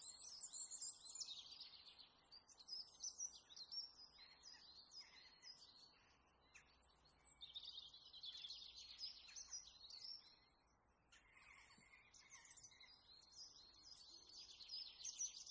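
Small birds chirping and twittering faintly: quick high trills and chirps in several bunches, with a brief lull about ten seconds in.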